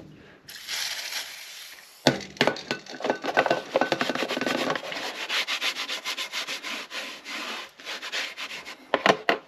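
A cloth wetted with WD-40 rubbed in quick back-and-forth strokes over a painted motorcycle panel, working at old sticker adhesive to soften it.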